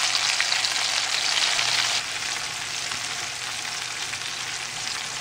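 Sliced onions sizzling in hot bacon fat in a frying pan, a steady hiss that drops a little in level about two seconds in. The onions have just gone into the fat and are frying to soften.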